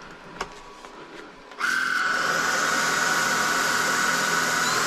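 Lubluelu cordless stick vacuum cleaner switched on about a second and a half in, its motor then running steadily with a high whine over a rushing hiss. A few light clicks come before it starts.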